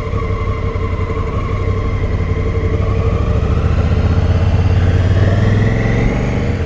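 Honda Africa Twin CRF1000L's parallel-twin engine running under way. Its pitch climbs steadily over the latter half, then eases off near the end.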